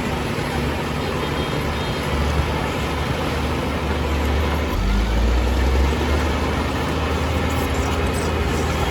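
Heavy diesel engine of earthmoving machinery running steadily with a low drone, growing louder and lower for about a second around the middle.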